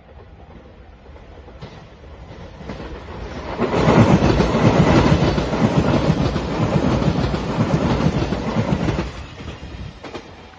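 Shiokaze limited express electric train passing along the track. Its noise builds over the first few seconds, stays loud for about five seconds, then drops off sharply.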